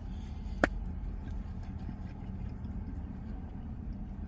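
Steady low rumble of an idling vehicle engine, with a single sharp click about half a second in.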